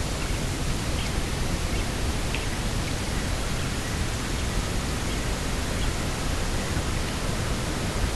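Steady rushing wind, heavy in the low end, with a few faint, very short high chirps scattered through it.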